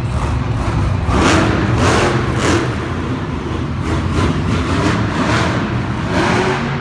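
Monster truck engine running loud, revving up in several short surges.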